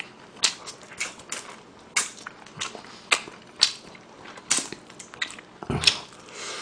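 Close-miked biting and chewing of crispy fried chicken drumsticks: a run of short, crunchy crackles at irregular intervals, about one or two a second.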